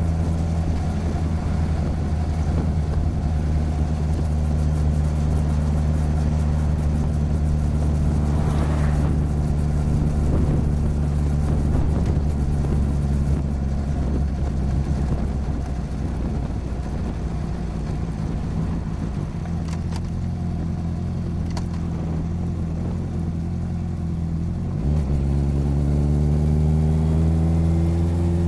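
Motorcycle engine and exhaust recorded close beside the bike while riding: a steady engine note for most of the stretch, then the pitch rises under throttle about three-quarters of the way through and falls away suddenly at the very end, as on a throttle-off or gear change.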